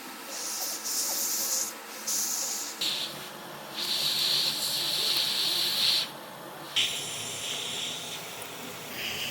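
A hiss of rushing air that starts and stops abruptly in stretches of a second or two, as from a hot-air or air-blower tool.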